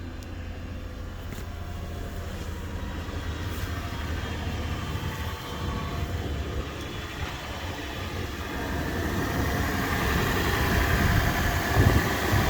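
2016 Toyota 4Runner's 4.0-litre V6 engine idling steadily, the sound slowly growing louder, with a brief thump near the end.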